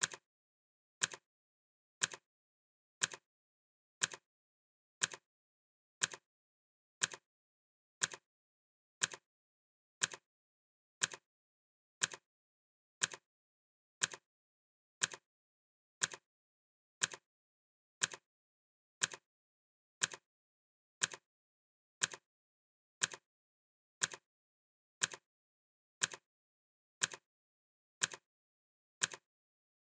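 Clock ticking steadily once a second. Each tick is a short, sharp click with silence between.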